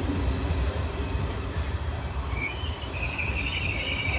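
Passenger train coaches rolling slowly past a station platform, with a steady low rumble. About two and a half seconds in, a high, wavering metallic squeal from the wheels sets in and grows louder.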